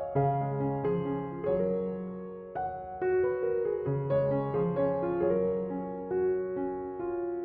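Background piano music, a gentle melody of soft notes.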